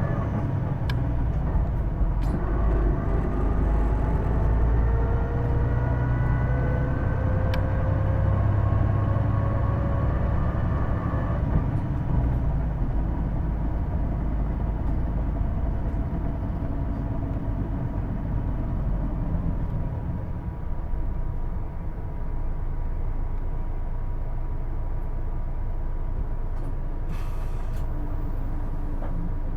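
Onboard running sound of a Hino Blue Ribbon II city bus accelerating, with a distinctive whine from the drivetrain that rises in pitch for about ten seconds, which the uploader takes for a transmission noise that sounds like an automatic gearbox. It then settles to a steady low rumble while cruising, with a short hiss near the end.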